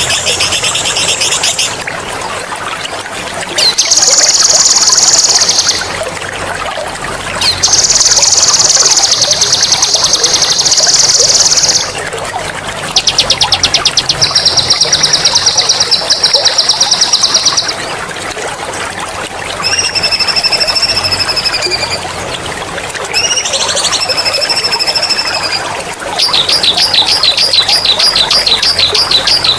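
A songbird singing loud, sharp rolling trills of very fast repeated high notes in phrases of two to five seconds, with two phrases of drawn-out whistled notes in the second half. Water trickles steadily underneath.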